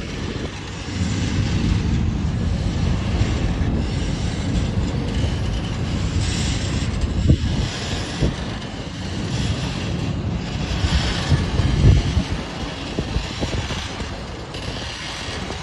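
Train of torpedo ladle cars (molten-iron transfer wagons) rolling on rails with a steady rumble of wheels. Sharp knocks come about seven seconds in and again about twelve seconds in.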